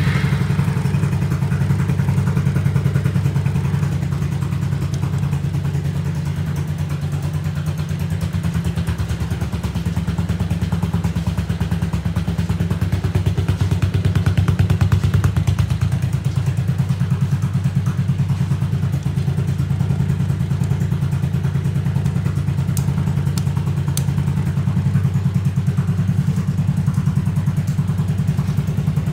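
Yamaha Majesty 250 (SG03J) scooter's single-cylinder four-stroke engine idling steadily after starting, swelling slightly about halfway through.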